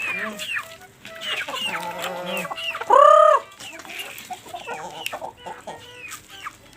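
A flock of Filipino native chickens clucking and chattering with many short calls. One loud, drawn-out call rises and falls about three seconds in.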